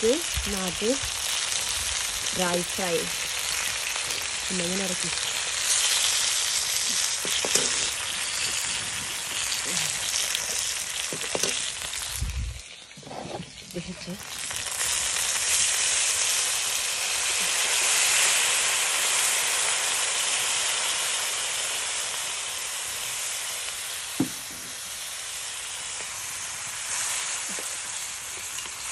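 Fish steaks sizzling steadily in hot oil in a metal wok, turned now and then with a slotted metal spatula, with a few light knocks. About halfway through the sizzling drops away for a couple of seconds, then comes back.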